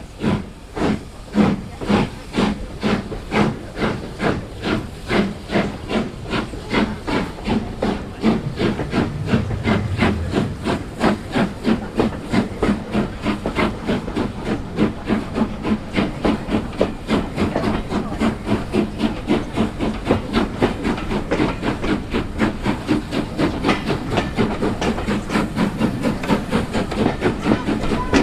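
Steam locomotive working hard, its chimney exhaust beats quickening as it gathers speed, with steam hissing.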